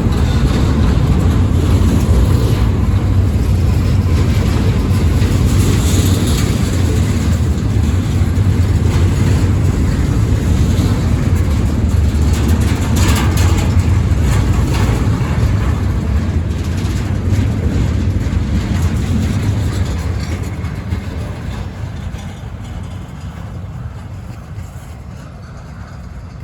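Train rolling past with a steady low rumble that fades away over the last ten seconds as it moves off.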